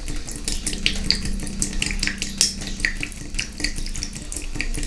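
Water from a leaking Moen tub/shower faucet running and splashing into the tub as a quick, irregular patter of drops.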